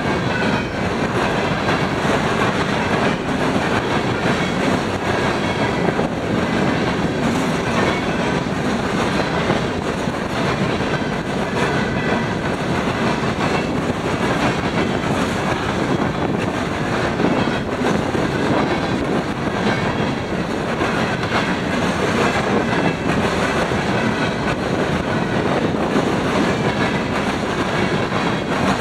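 Freight train rolling past, its railcars' wheels running steadily over the rails with repeated clacks.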